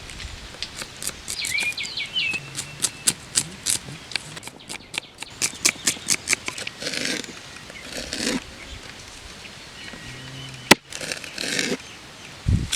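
A run of sharp taps or clicks, about four a second, with a brief bird chirp about two seconds in. Then two rustling swishes and a single loud, sharp knock near the end.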